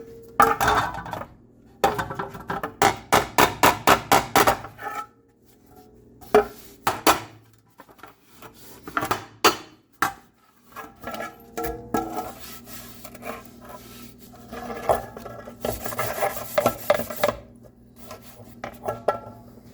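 Light hammer taps on the dented air cleaner housing of a 1964 Mercury Comet, tapping the dent out. There is a quick run of sharp taps, then a few spaced single strikes. Near the end there is a stretch of scraping or rubbing on the metal.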